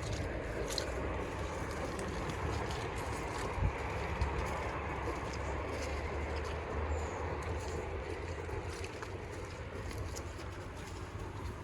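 Wind rumbling steadily on the microphone, with scattered faint clicks.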